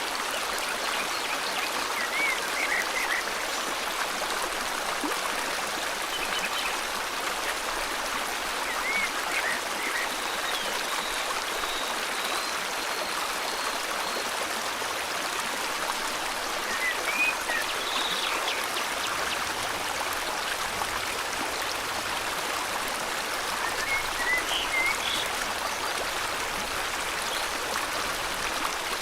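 River water flowing steadily, with short bird chirps and calls breaking in every few seconds.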